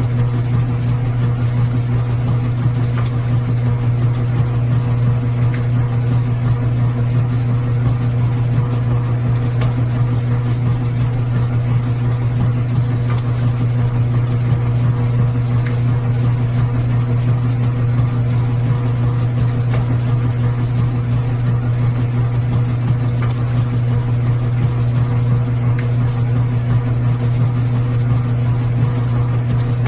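Washing machine running with a steady low motor hum and a few faint ticks.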